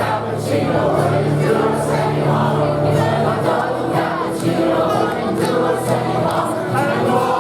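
A group of voices singing a song together in chorus, with long held notes.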